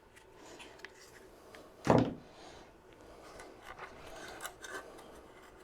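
Faint handling of small air-filter and housing parts from a portable generator: light rustling and small clicks and taps, with one brief louder sound about two seconds in.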